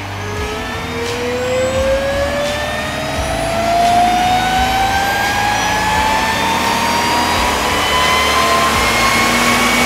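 Supercharged 4.0-litre inline-six of a 2005 Jeep Wrangler TJ accelerating on a chassis dyno, revving steadily up from under 2,000 to about 4,500 rpm. A whine from its Sprintex supercharger climbs steadily in pitch with the revs.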